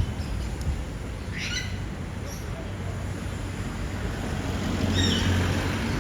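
Garbage truck engine running steadily, a little louder near the end, with a bird chirping briefly twice.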